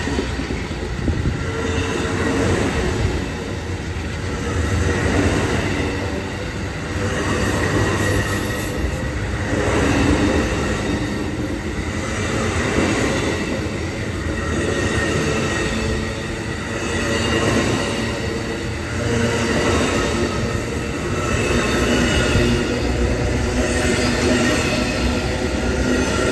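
A train rolling past, its rumble swelling and easing every two to three seconds, with thin steady high tones over it.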